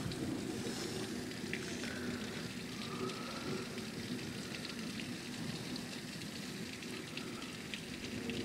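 Steady rain falling, with scattered sharp drops and drips.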